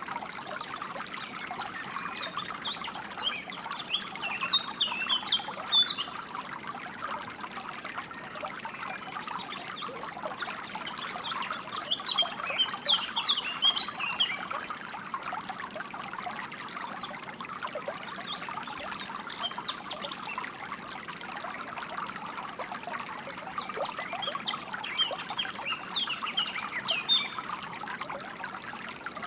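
Water trickling and flowing steadily. Over it, songbirds chirp in four spells of rapid, high chirps a few seconds apart, which are the loudest parts.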